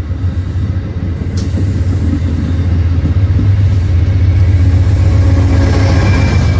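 CTrail locomotive 6402 going by: a steady low engine and rail rumble that grows louder to a peak near the end.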